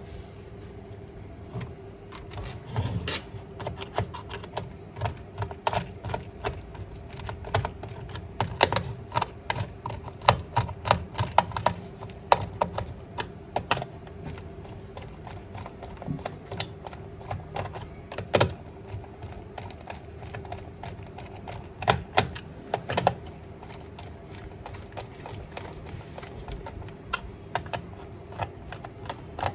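Irregular clicks and taps of small plastic toy-car parts being handled and snapped together or apart, some in quick runs, with a faint steady hum underneath.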